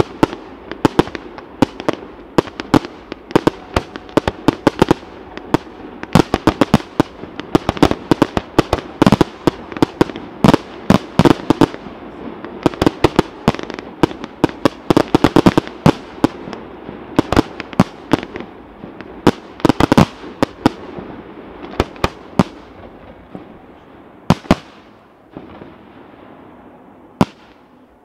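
Fireworks display: a dense, irregular barrage of aerial shells bursting, several bangs a second, thinning out near the end to a few isolated bangs.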